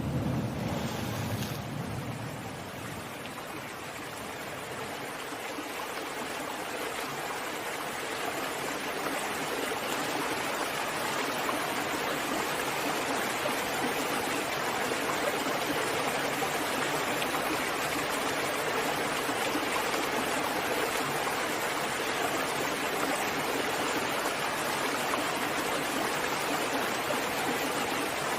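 Steady rushing water. A deep rumble fades out in the first couple of seconds, then the rush swells gradually and holds even, with no distinct breaking waves.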